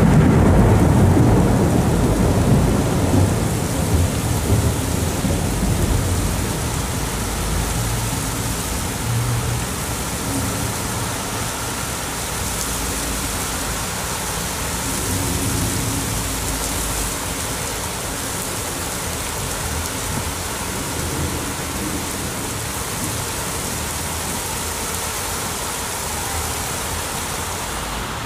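Thunderstorm: a loud clap of thunder rumbles and slowly dies away over the first few seconds, with further low rumbling after it, over steady heavy rain.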